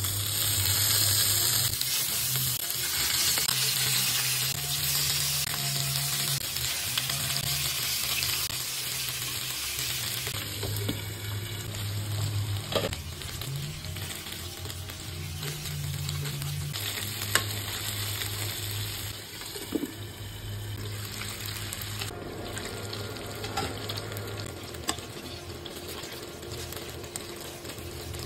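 Chicken wings sizzling as they fry in hot oil in a nonstick frying pan, loudest in the first few seconds as they go in and easing off later. A few sharp clicks of metal tongs turning the wings.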